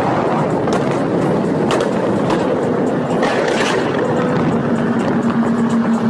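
Sports car engine running loud through its exhaust, with a few sharp cracks. A steady engine note settles in about halfway.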